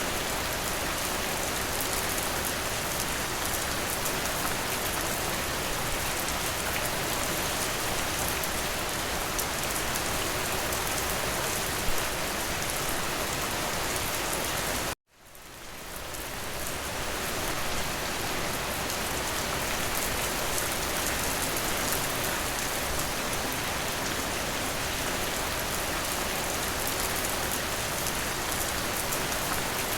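Steady heavy rain, a dense even hiss of drops on a window. About halfway through the rain cuts out abruptly, then fades back in over a couple of seconds, like a loop or edit seam in the recording.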